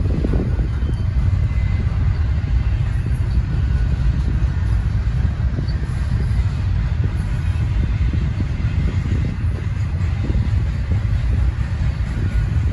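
Double-stack intermodal container cars rolling past on the rails, making a steady low rumble of wheels on track.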